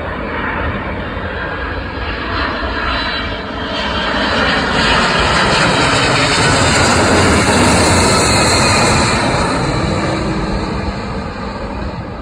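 An airplane's engines passing close by: a broad roar that builds to its loudest about two-thirds of the way through, then eases off, with a faint high whine over it.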